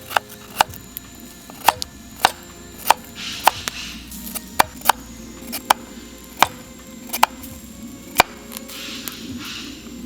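Sharp knocks at irregular intervals, about one or two a second, with a woody, chopping character.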